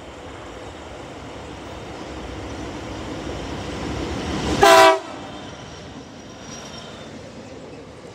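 An SCT Logistics freight train's diesel locomotives approach with a rumble that grows steadily louder. About four and a half seconds in they give one short horn blast and pass beneath, and then the freight wagons roll by with a steady rolling noise.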